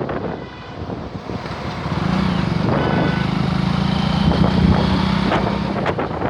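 A motor vehicle's engine running steadily, a low hum that comes in about two seconds in and fades just before the end, over a rushing background noise.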